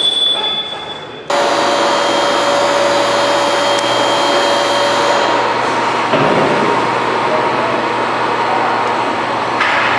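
An electric motor switches on about a second in and runs steadily with a loud whine.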